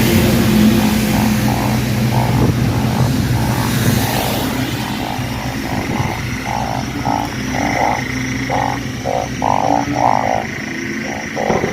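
Chorus of banded bullfrogs calling after fresh rain: many short croaks repeating and overlapping, growing denser about halfway in, over a low steady hum that fades out around the same time.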